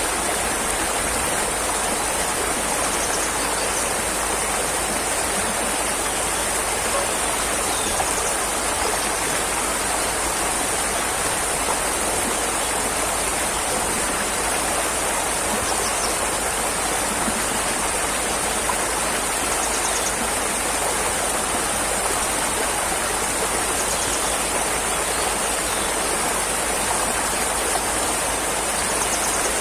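Steady, unchanging rushing water, with a constant high hiss on top.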